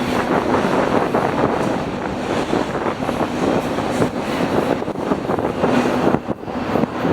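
A train rolling past close by: a steady rumble and rattle of wheels on the rails, with wind buffeting the microphone.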